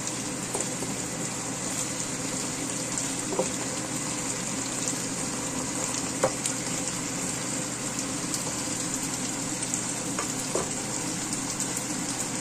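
Fried fish and sambal sauce sizzling steadily in a wok, with a few light clicks of a spatula against the pan, the sharpest about halfway through.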